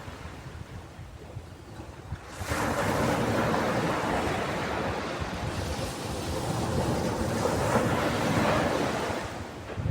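Ocean waves on a beach: after a short lull, a wave surges in about two seconds in and washes for several seconds, then eases off near the end.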